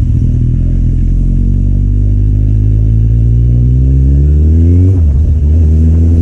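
Kawasaki Z800's inline-four engine through an Akrapovič exhaust under way: the engine note climbs steadily as the bike accelerates, drops sharply about five seconds in at a gear change, then carries on steady.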